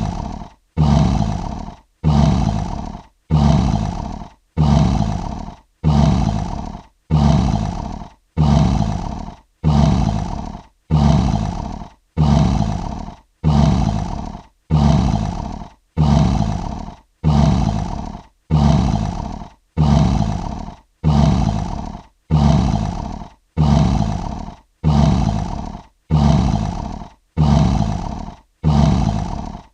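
Lion roar sound effect: a short, deep roar-grunt repeated at an even pace about once a second. Each call starts sharply and fades away before the next.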